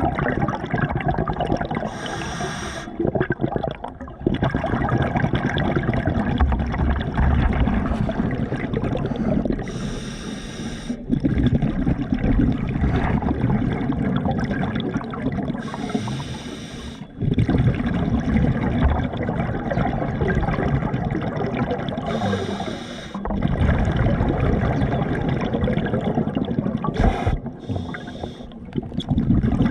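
Water sloshing and gurgling close to the microphone, with a brief brighter hiss about every five or six seconds.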